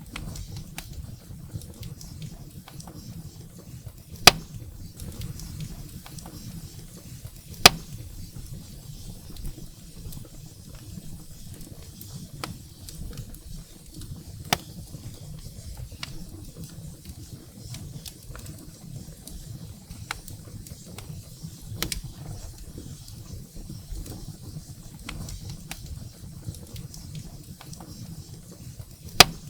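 Wood fire burning in a fireplace: a steady low rumble of flames with scattered crackles of burning firewood, and three loud sharp pops, about 4 s in, about 8 s in and near the end.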